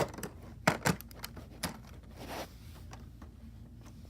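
Small die-cast toy car and its packaging being handled: several light clicks and knocks, then a short scraping rustle.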